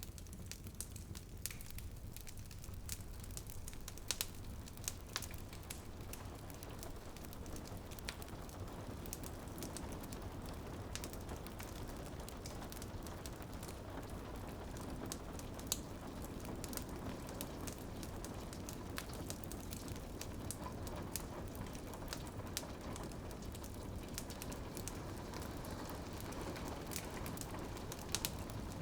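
Wood fire crackling, with sharp pops at irregular intervals, over a steady patter of rain on a window.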